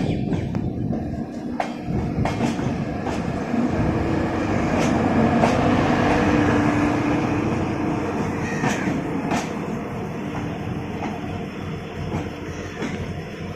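Belagavi–Bengaluru Superfast Express rolling through the station, its wheels clicking over the rail joints, with a steady drone that swells about four seconds in and fades after about eight seconds.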